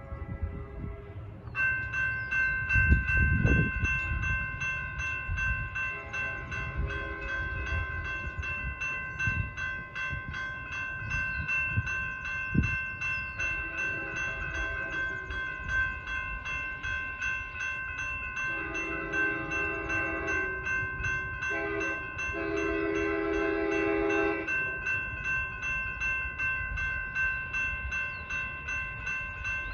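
Railroad crossing bell starts about a second and a half in and rings steadily as the crossing activates. Over it an approaching Amtrak train sounds its horn in several blasts, two long ones and then a longer group near the end, with a low rumble underneath.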